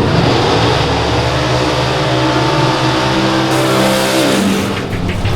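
Drag-racing truck engine accelerating hard, its pitch climbing steadily for about four seconds, then dropping away near the end.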